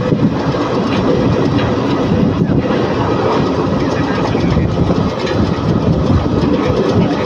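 Palakkad–Tiruchendur Express passenger train running at speed: a loud, steady rumble with the clatter of wheels on the rails.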